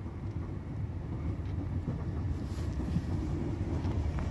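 Low, steady rumble of a regional train coming into the station, slowly getting louder, mixed with wind buffeting the microphone.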